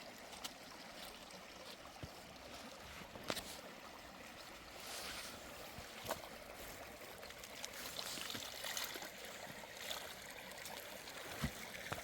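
Steady hiss of running water, a little louder from about five seconds in, with scattered sharp clicks and knocks.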